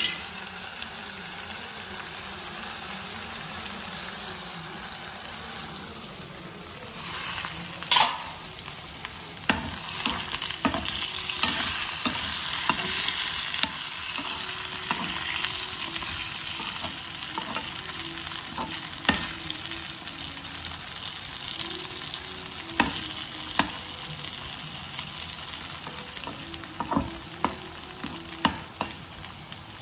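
Food sizzling in hot oil in a steel kadai, first chopped shallots with mustard seeds, then masala-coated pieces. A steel spoon stirs them, knocking and scraping against the pan every few seconds.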